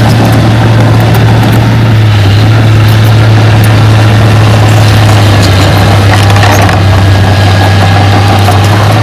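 Diesel engine of heavy earthmoving machinery running at a steady, unchanging speed, with a strong low drone and light scattered clicks and rattles.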